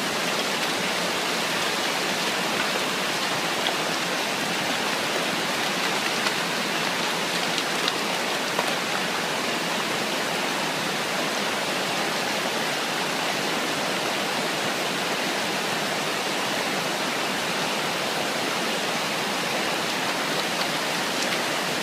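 Steady rushing water, an even hiss with a few faint ticks in it.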